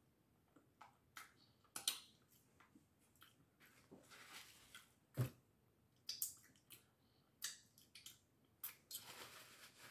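A person eating close to the microphone: faint chewing with scattered mouth clicks and lip smacks, the sharpest smack about five seconds in.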